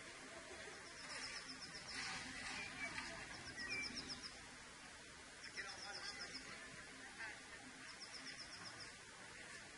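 Bird song: a short, rapid trill of high notes repeated about every two seconds, with a few scattered chirps in between, over faint background noise.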